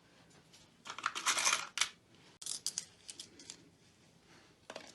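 Copper pennies clinking together as they are handled: a rattling jingle about a second in, then several separate small metallic clicks.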